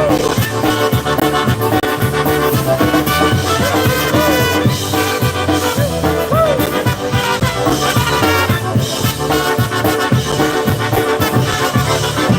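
Live polka band playing a polka, with accordion and brass over a steady bouncing beat.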